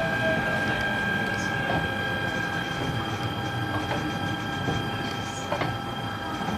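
E129-series electric train running as it pulls into a station. Its Toyo Denki IGBT-VVVF inverter and traction motors give a steady multi-tone whine over running noise, with faint clicks from the wheels over the track.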